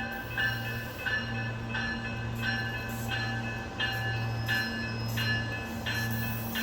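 Bell clanging in a steady rhythm, about one strike every 0.7 seconds, over the steady low hum of an RTD Silverliner V electric commuter train at the station.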